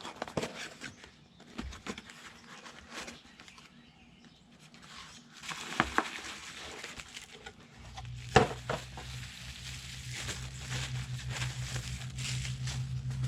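A small product box and its packaging being opened by hand: crinkling, tearing and rustling, with scattered clicks and taps and two sharper clicks. A steady low hum starts about two-thirds of the way through.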